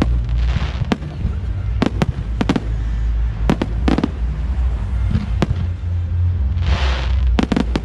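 Aerial fireworks bursting, with sharp bangs at irregular intervals. There is a crackling spray about half a second in, and a louder crackling burst near the end followed by a quick cluster of bangs. A steady low rumble runs beneath.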